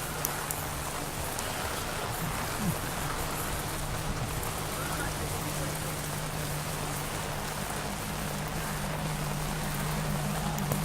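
Steady rain falling, with a low steady hum underneath that grows a little louder near the end.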